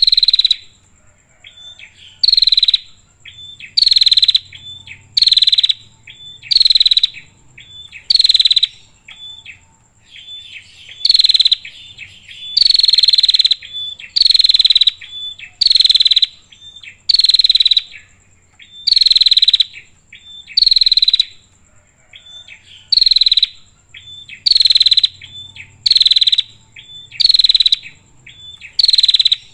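Female prinia (prenjak) calling: loud, rasping calls repeated about every one and a half to two seconds, with short sharp chirps between them. A faint steady high-pitched whine runs underneath.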